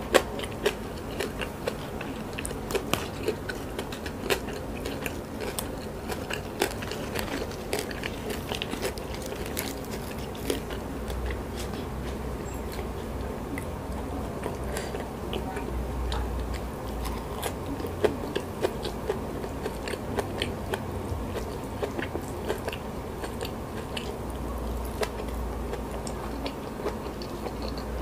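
Close-miked chewing and crunching of a mouthful of fried salted fish, raw leafy greens and rice: continuous irregular crisp crackles and wet mouth clicks.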